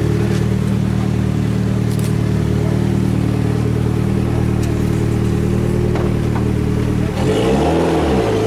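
Rally car engine idling steadily, then, about seven seconds in, being revved, its pitch rising and falling with the throttle blips.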